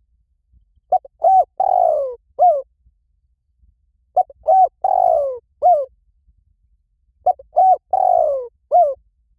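Spotted dove cooing. The same phrase comes three times, about three seconds apart: a few short coos, one long falling coo and a short closing coo.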